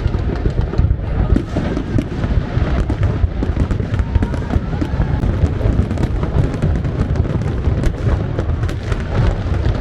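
Fireworks going off in rapid succession: continuous low booms with many sharp cracks throughout.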